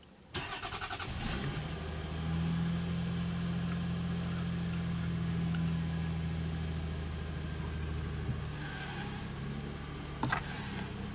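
2000 Lexus ES300's 3.0-litre V6 (1MZ-FE) cold-started: the starter cranks briefly and the engine fires at once, settling into a steady fast cold idle that eases down a little near the end. A sharp click sounds shortly before the end.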